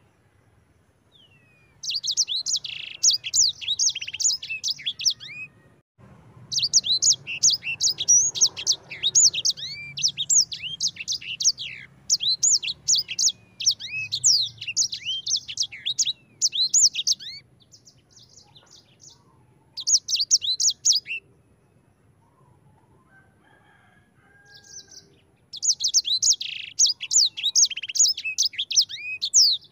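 Sanger songbird (edel sanger) singing its rolling song: fast runs of high chirps and sweeping notes in long bursts, broken by a few short pauses.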